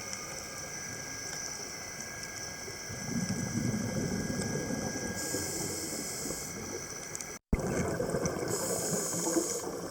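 Underwater sound on a scuba dive: a steady hiss with the bubbling of the diver's exhaled air, louder from about three seconds in. The sound drops out for an instant a little past seven seconds, at a cut.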